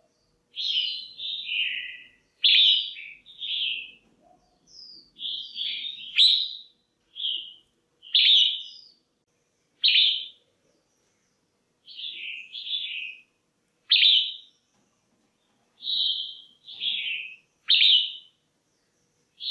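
Female red-whiskered bulbul calling: short, clear chirping notes, singly or in quick runs of two or three, repeated with brief pauses.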